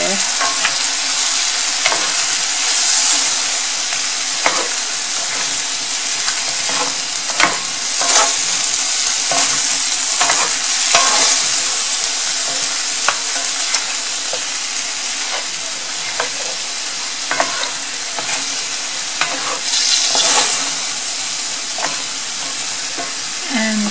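A chicken and vegetable stir-fry sizzling in oil in a cast-iron skillet: a steady hiss that swells now and then, with scattered clicks and scrapes as a wooden spatula stirs and turns the food.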